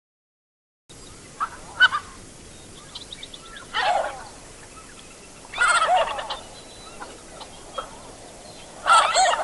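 Canvasback ducks calling: short, rough calls with several pitches at once, in separate bouts about 2, 4, 6 and 9 seconds in, over a steady faint hiss. The recording begins after about a second of silence.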